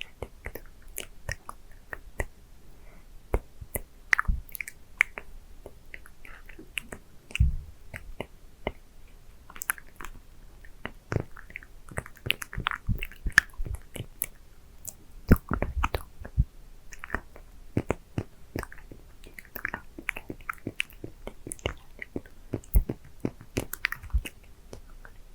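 Close-miked mouth sounds of a hard candy being licked and sucked: irregular wet clicks and smacks.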